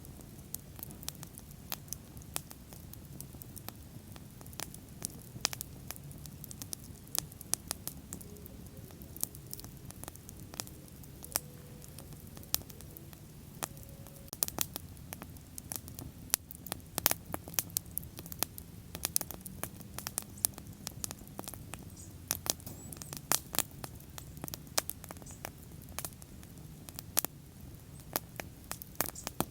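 Wood bonfire burning and crackling: irregular sharp pops and snaps, many a second, over a steady low noise from the fire.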